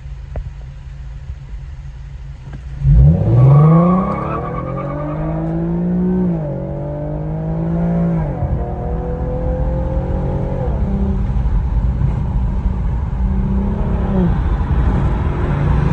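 Infiniti Q50's 3.7-litre VQ37VHR V6 through a muffler-delete exhaust: a low rumble, then a hard rev about three seconds in that climbs fast in pitch. Several more revs follow, each rising and falling back.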